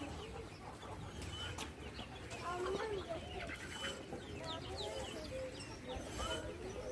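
Chickens clucking, many short calls overlapping one another throughout.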